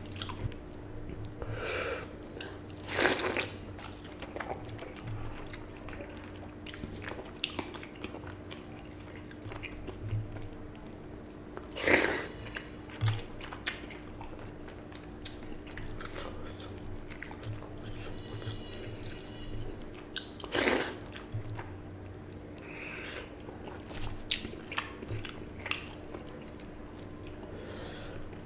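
Close-miked mukbang eating: chewing, biting and wet mouth sounds of water-soaked panta bhat rice and fried hilsa fish eaten by hand, with scattered small clicks and a few louder crunches or smacks. A faint steady hum runs underneath.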